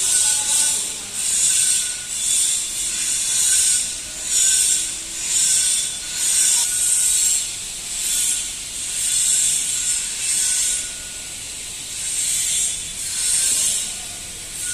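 A hand tool worked in repeated rasping strokes, about one a second, each stroke a hissing scrape, with a short pause near the end.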